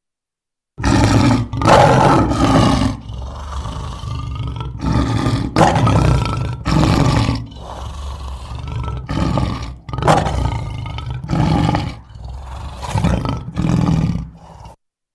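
Tiger giving a long series of deep roars and growls, one every second or so, that stops suddenly near the end.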